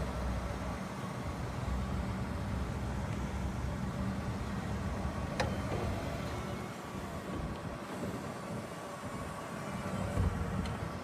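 A 1977 Cadillac Eldorado Biarritz's V8 running, a steady low rumble, with a sharp click about five seconds in and a short knock near the end.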